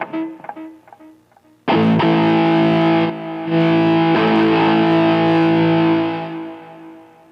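Distorted electric guitar played through a Nux MG-300 multi-effects processor. A few quiet picked notes, then a loud distorted chord struck about a second and a half in. It is struck again near the middle and left ringing, fading out near the end.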